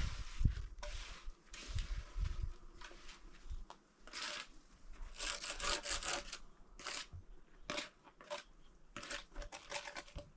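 Irregular scraping, rasping strokes with a few low knocks.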